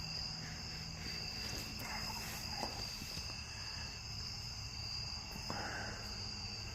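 Evening chorus of crickets trilling steadily, a continuous high buzz in several pitches.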